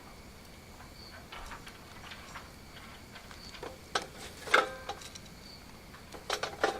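Scattered sharp knocks and clacks of split lumber pieces, the loudest ringing briefly about four and a half seconds in, with a quick cluster near the end. A faint high chirp repeats every second or two underneath.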